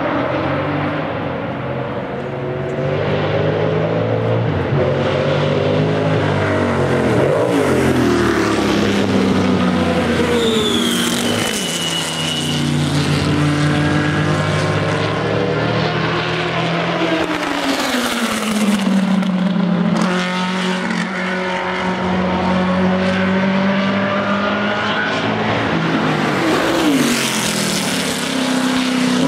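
Historic sports-prototype racing cars running past one after another at racing speed, their engines pitching down steeply several times as each one goes by or changes gear.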